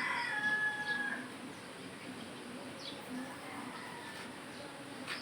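Birds calling: a held, pitched call in the first second, then a few short high chirps.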